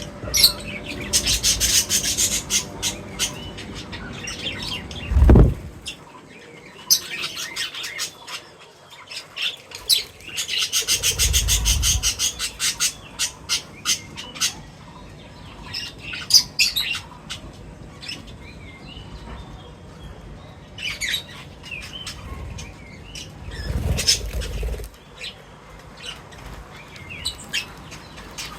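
Small birds feeding: quick repeated chirps and short calls, with flurries of wingbeats around two and eleven seconds in and a few low thumps.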